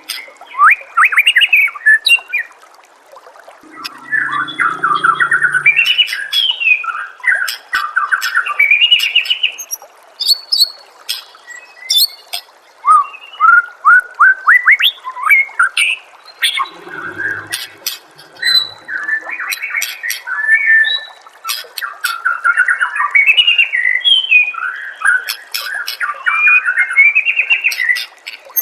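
White-rumped shama (murai batu) singing loud, fast, varied phrases of whistles and sliding notes, broken by short pauses and sharp clicking notes. A couple of short, lower-pitched calls come in about four seconds in and again past the middle.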